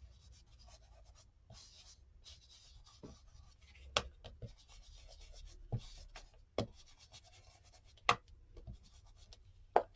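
Soft, faint rubbing and scratching as Distress Oxide ink is worked onto a paper journal page, with a few sharp taps or clicks between the strokes.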